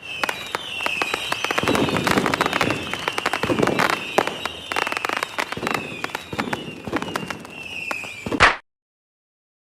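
Fireworks crackling and popping in rapid bursts, with a few deep booms and short falling whistles repeating about once a second. A single loud bang comes near the end, then the sound cuts off abruptly.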